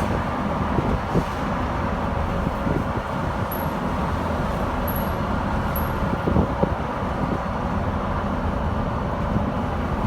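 Cabin noise inside a BYD K9A battery-electric bus under way: a steady low road rumble with a faint steady whine and scattered short knocks and rattles.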